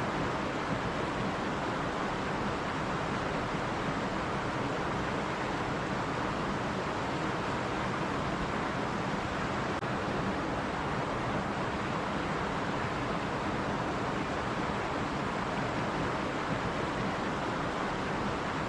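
Stream water running over rocks, a steady, even rushing.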